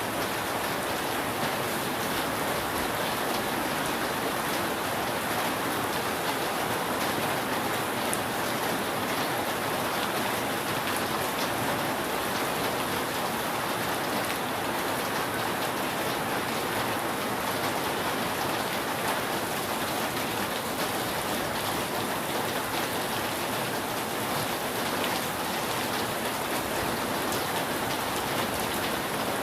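Steady, heavy rain falling on a roof, a dense even hiss of drops with many small separate drop ticks, unchanging throughout.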